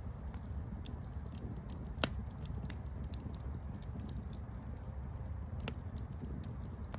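Campfire burning: a steady low rumble of flames with frequent small crackles and two louder sharp pops, about two seconds in and near the end.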